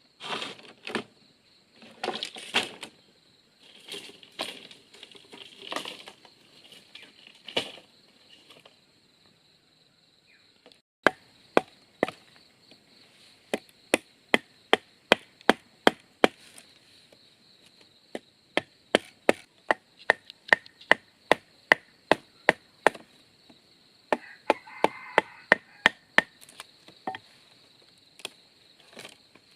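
Bamboo being chopped with a blade: after a few irregular, scraping cuts, a steady run of sharp wooden strikes about two a second begins about a third of the way in, with a short pause in the middle. A steady high-pitched whine sits underneath throughout.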